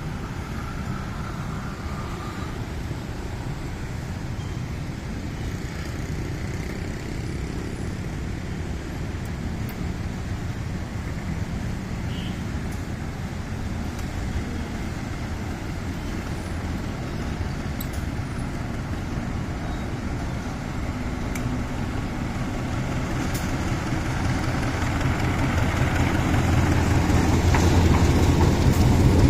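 Steady low rumble of road traffic, with a vehicle approaching and growing louder over the last several seconds.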